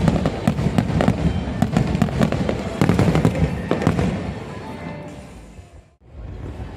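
Fireworks display: a rapid barrage of sharp bangs and crackling bursts over a low rumble, with music playing. It fades away about four to six seconds in, drops out briefly, then comes back.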